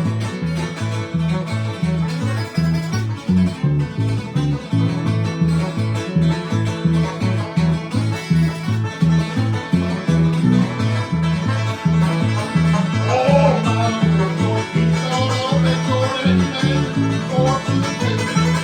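Bluegrass instrumental played on acoustic guitar and banjo, over a low bass line that alternates between two notes in a steady beat.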